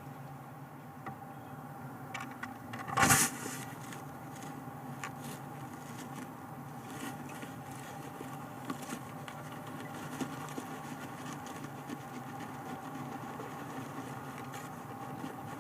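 Steady electrical hum from a nest-box camera's microphone, with scattered small scrapes and clicks of a bird shifting on the nest material, and one brief loud scuffle about three seconds in.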